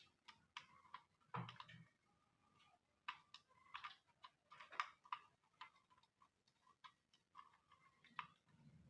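Faint, irregular clicks and light taps, a few close together at times, with one slightly heavier knock about a second and a half in.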